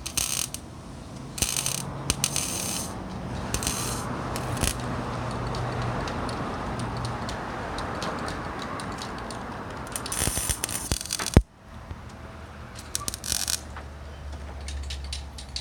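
Aerosol can of high-heat paint spraying in short hissing bursts, half a second to a second long, with clicks and rattles between them.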